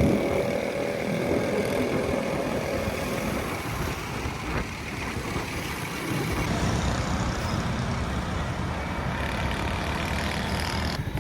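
Street traffic with motor vehicle engines running; from about halfway through, a nearby engine idles with a low, fast, even pulse.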